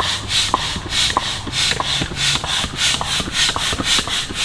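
Someone walking: rhythmic scuffing and rubbing at about two steps a second.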